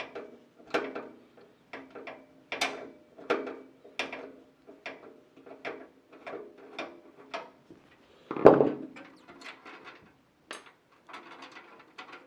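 A screwdriver backing screws out of a PC case's rear expansion-slot covers: a run of short metallic clicks and scrapes, about one or two a second, with a louder knock about eight and a half seconds in.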